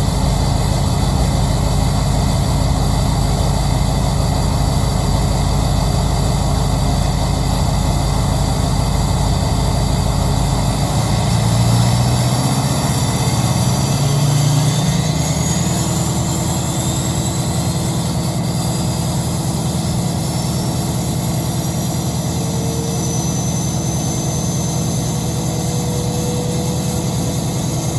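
Duramax LLY 6.6-litre V8 turbodiesel idling through an aftermarket MBRP 3-inch downpipe and 5-inch exhaust, shortly after a cold start. About halfway through the engine note rises briefly and a thin high whistle climbs, then it settles back to a slightly quieter idle.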